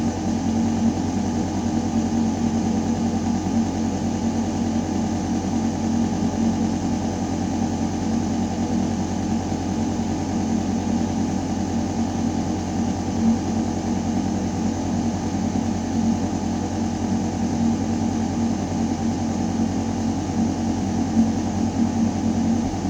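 Building ventilation system running in a shaft: a steady, constant low mechanical hum with a clear droning tone, over the hiss of air moving through metal ductwork.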